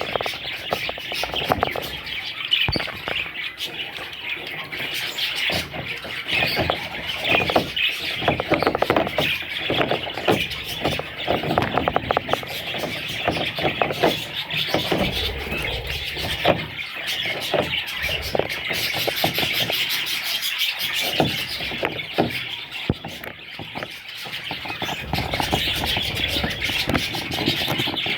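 Budgerigars chattering and chirping in a continuous high twittering, with many short clicks mixed in.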